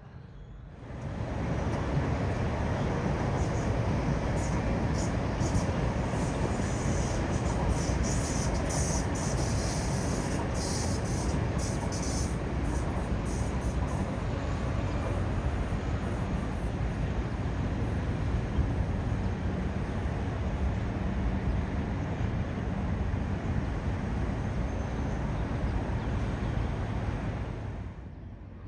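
Jet aircraft engine noise at an airport, loud and steady for most of the clip, with a thin high whine throughout and harsher high-pitched rushing between about 7 and 14 seconds in.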